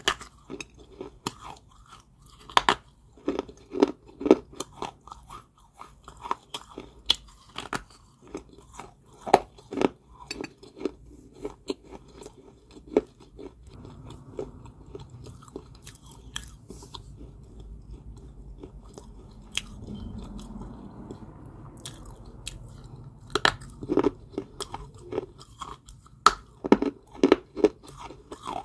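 Close-up crunching and chewing of dry, crumbly Georgia White kaolin clay balls, with many sharp crunches. About halfway through the crunches thin out into a stretch of softer chewing, and the crunching comes back near the end.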